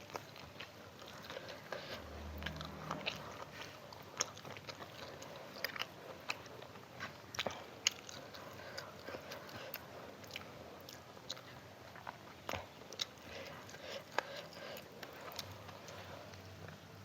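Close-up chewing and biting: a person eating with many small clicks of the mouth and teeth, crunching now and then.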